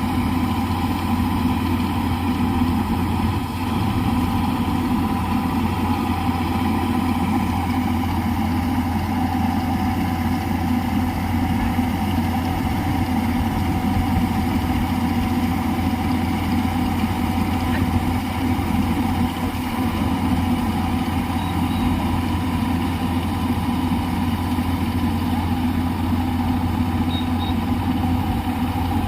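New Holland tractor's diesel engine running steadily at a constant speed, with an even low hum and no change in pitch.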